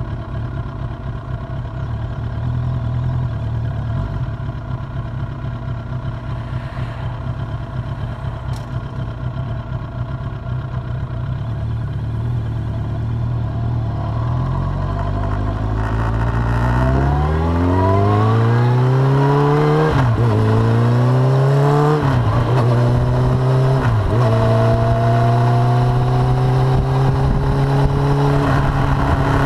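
Suzuki GSX750F inline-four engine running at a steady low pitch, then accelerating from about halfway: the revs climb and drop quickly three times at gear changes, then hold a steady higher pitch under cruise.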